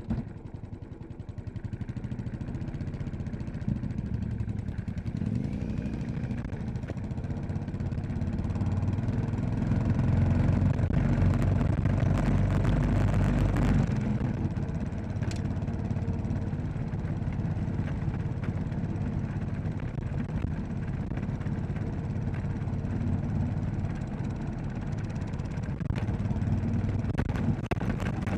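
Royal Enfield Classic 500's single-cylinder engine running as the bike is ridden, getting louder from about eight seconds in and easing back a little around fourteen seconds.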